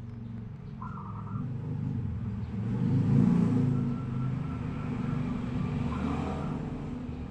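A road vehicle passing, its engine rumble building to a peak about three seconds in and then easing off. A bird gives short calls about a second in and again near six seconds.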